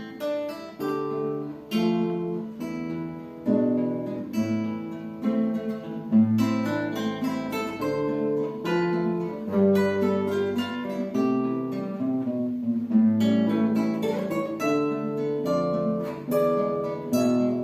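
Two acoustic guitars playing a duet: plucked notes and chords, each with a sharp attack that rings and fades, in a steady flowing pulse.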